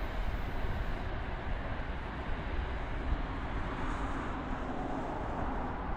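Commuter train running past on the rails, a steady noise of wheels and running gear.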